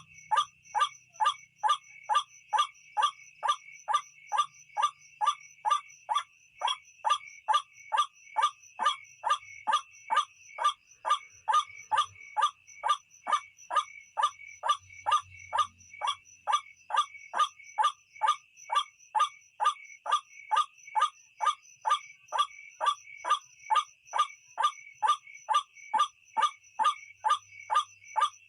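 White-breasted waterhen (ruak-ruak) calls played as a night lure: short, pitched calls repeated very evenly at about two a second, over a steady high hum.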